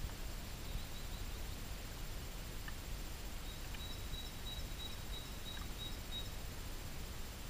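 Faint, high bird chirps about a second in, then a thin high trill lasting about three seconds. Underneath is a steady background hiss and low rumble.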